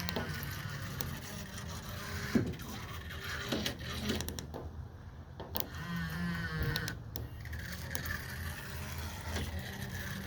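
Small electric motor of a radio-controlled toy boat running, with a steady low hum and several sharp clicks and knocks along the way.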